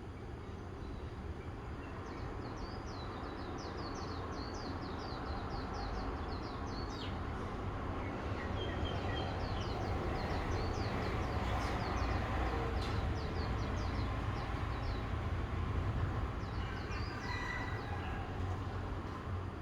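Small birds chirping in quick repeated series over a steady low rumble that slowly grows louder and then eases off a little near the end.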